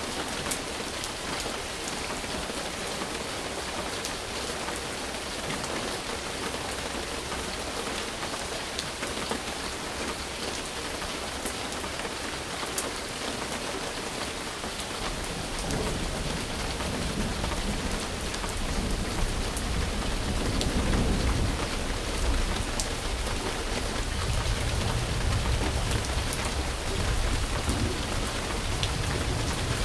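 Steady rain falling, an even hiss with scattered individual drops. About halfway through, a low rumble of thunder comes in, swelling a few seconds later and rolling on to the end.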